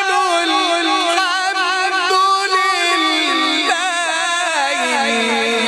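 A man's voice reciting the Quran in a melodic tajweed style, holding one long drawn-out phrase with quick wavering ornaments. The pitch sinks lower near the end.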